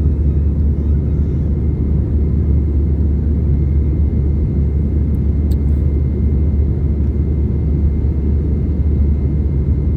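Cabin noise of an Airbus A320 with CFM56-5B engines in flight: a steady, loud, low rumble of engines and airflow, with a faint steady high whine over it.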